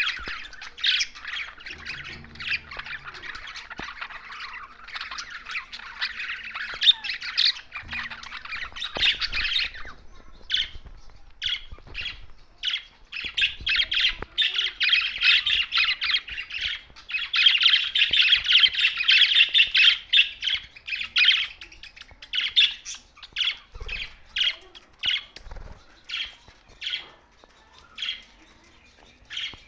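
A group of budgerigars chattering and warbling continuously. The chatter breaks into separate sharp chirps around ten seconds in, swells again in the middle, then thins to scattered chirps near the end.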